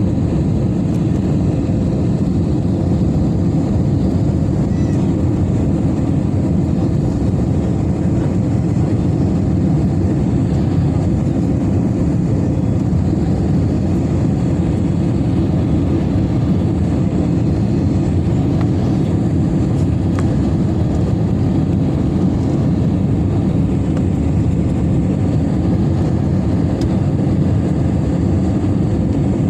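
Steady low rumble of an Airbus A320neo, holding an even level with no rise or fall.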